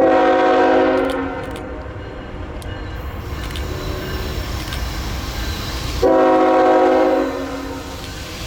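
Norfolk Southern GE ET44AC locomotive sounding its air horn in two blasts, each a little over a second long, one at the start and one about six seconds in, over the steady rumble of the approaching locomotive and train.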